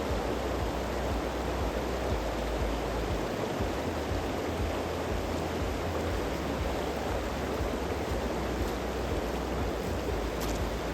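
Steady rushing of flowing water from a stream, with an uneven low rumble underneath.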